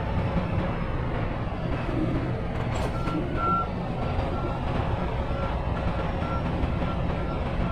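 Semi-truck's diesel engine rumbling steadily as it reverses, with a backup alarm starting about three seconds in and beeping about twice a second.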